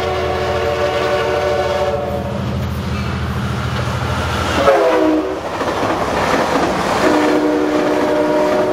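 Amtrak Pacific Surfliner F59PHI diesel locomotive passing at speed, its multi-chime air horn sounding over the diesel engine. About five seconds in, the horn chord slides down in pitch as the locomotive goes by and the engine rumble falls away. Then the coaches pass with a rushing rattle of wheels on rail, and the horn sounds again at a lower pitch near the end.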